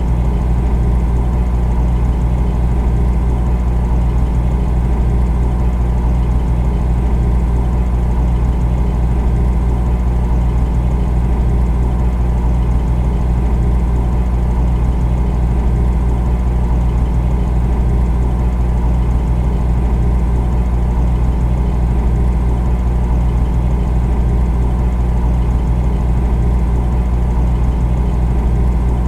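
Refrigerator humming steadily: a low, unchanging drone with a few steady overtones above it.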